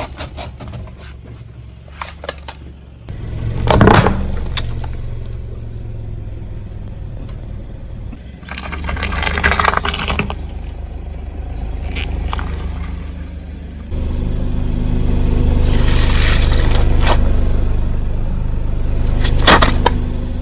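Car engine running while a tyre rolls over objects and crushes them, with a series of sharp cracks and crunches. The loudest crack is about four seconds in, with more around the middle and near the end. The engine hum rises twice as the car pulls forward.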